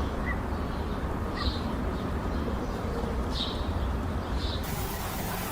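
Steady low rumble with a few short, high bird chirps over it; about four and a half seconds in, a steady hiss cuts in suddenly.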